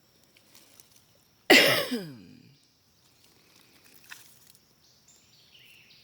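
A single loud cough about a second and a half in, trailing off into a falling voiced sound.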